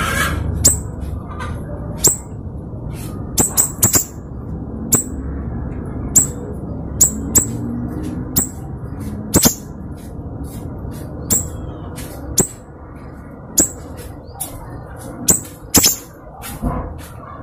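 Siri-siri bird calling in short, sharp, very high notes, one to two a second and often in quick pairs or threes, over a low background rumble.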